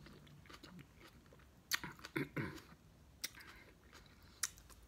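Close-up mouth sounds of a person chewing a mouthful of chili cheese coney dog: wet smacks and sharp clicks, the loudest a few scattered ones about two seconds in, about three seconds in and near the end.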